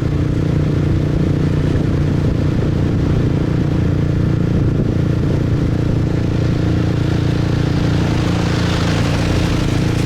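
Motorbike engine running steadily at cruising speed while riding. A hiss grows louder near the end.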